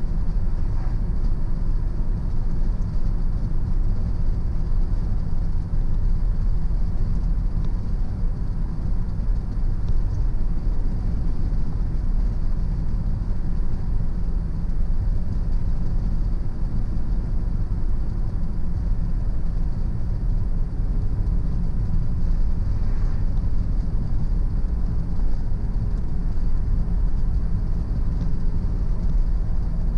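Car driving at steady speed: an even low rumble of tyres and engine with no changes.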